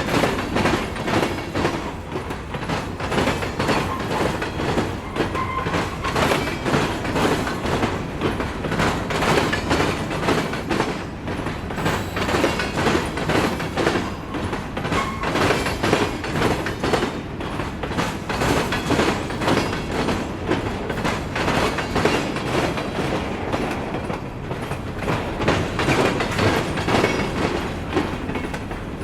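Escanaba & Lake Superior freight train rolling past, its wheels clacking in a steady rhythm over the rail joints.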